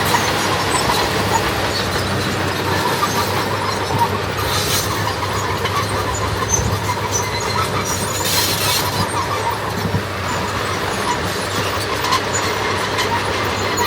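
Heavy diesel earthmoving machinery running steadily with metallic squealing and clatter, typical of steel crawler tracks, and two brief hissing bursts, one about four and a half seconds in and one about eight and a half seconds in.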